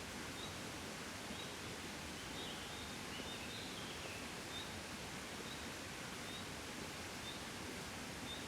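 Gentle wind blowing steadily and softly, a even rush of air with no gusts. A faint high chirp recurs about once a second over it, with a short flurry of chirps near the middle.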